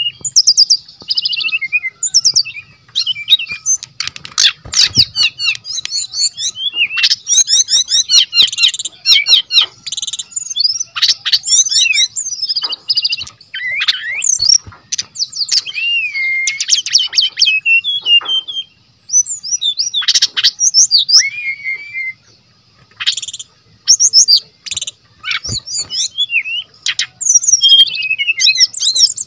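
Brown-chested jungle flycatcher singing loudly and almost without pause: a fast, varied stream of whistled sweeps, trills and sharp chattering notes, the full mimicked 'isian' song of a bird in strong voice. It breaks off briefly twice, a little past the middle.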